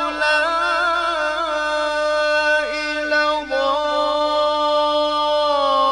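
Quran recitation in the melodic tajwid style: a single man's voice chanting in long, ornamented held notes with wavering pitch.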